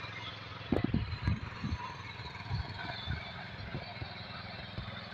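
Tractor engine running steadily, with a cluster of knocks and rattles about a second in and a few lighter ones after.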